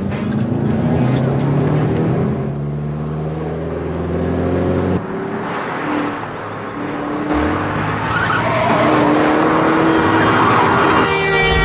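Car engines revving hard in a chase, their pitch rising under acceleration, with the sound changing abruptly a couple of times.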